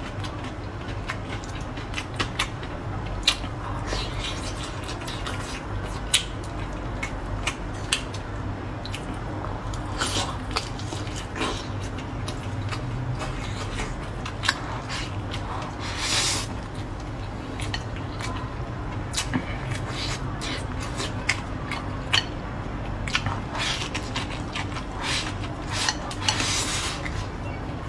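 Close-up chewing and mouth smacking on a mouthful of rice and braised meat. Wooden chopsticks click now and then against the bowl, with a few longer wet slurping bursts.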